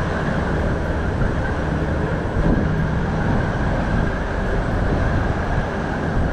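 Steady rumbling noise with no speech. A faint low hum shows briefly about two and a half seconds in.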